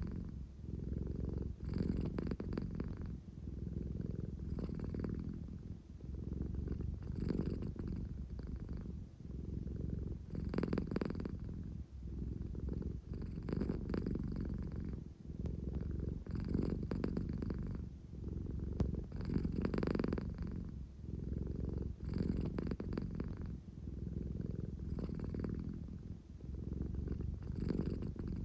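American Shorthair cat purring continuously, the purr swelling and easing in a regular rhythm about every two to three seconds as she breathes in and out. A drowsy, contented purr of a sleepy cat wanting affection.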